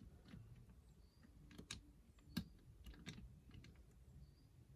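Faint, irregular small clicks of a lever lock pick working the levers inside a 5-lever mortice lock under increased tension, as each lever is lifted and tested.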